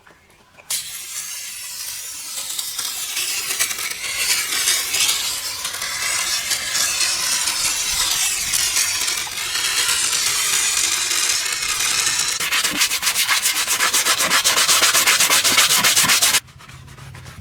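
A stiff brush scrubbing a surface, a loud scratchy rubbing that starts about a second in. Near the end it quickens into rapid back-and-forth strokes, then stops abruptly.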